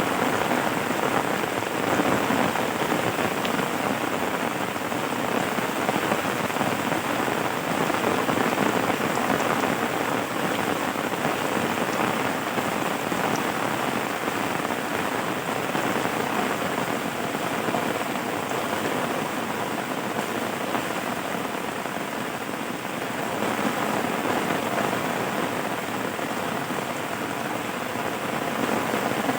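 Steady rain falling on a surface, an even patter with small swells in loudness and no thunder.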